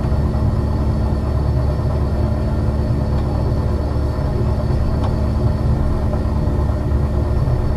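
Ex-Liverpool Corporation electric tram 869 running slowly along the track: a steady low rumble with a constant hum and a couple of faint ticks.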